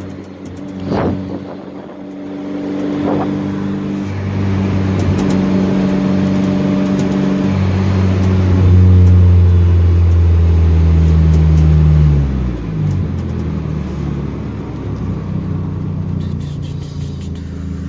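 Hyundai Genesis Coupe 2.0T's turbocharged four-cylinder engine pulling the car along under load. Its note builds and holds strongly, then falls away about twelve seconds in and settles into a steady lower drone.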